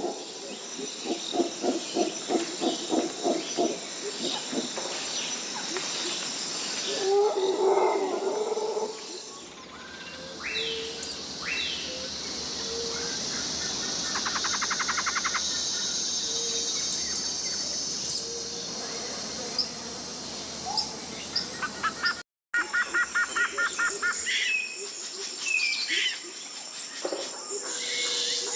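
Tropical rainforest ambience: steady high-pitched insect buzzing under scattered bird chirps and fast trills. A run of low, rhythmic pulsing calls fills the first third. The soundscape changes abruptly twice, with a brief dropout at the second change.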